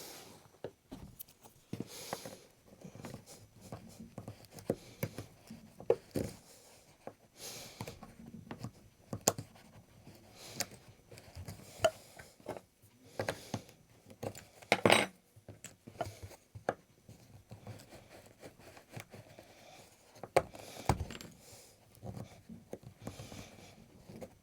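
Hand tools clicking and scraping on a wooden chair frame as old upholstery threads, staples and nails are pulled out. Irregular sharp clicks and short rubbing scrapes, the loudest about 15 seconds in.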